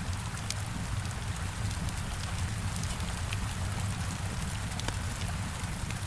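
Heavy rain hitting a window: a steady hiss over a low rumble, with scattered sharp ticks and crackles, which are drops and the crackling of a fireplace.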